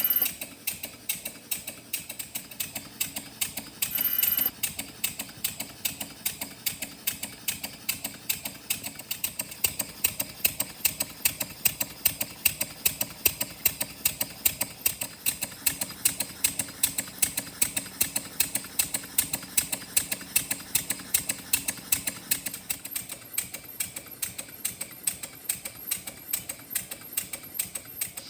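Small model engine running, ticking over with an even clicking rhythm of about four beats a second.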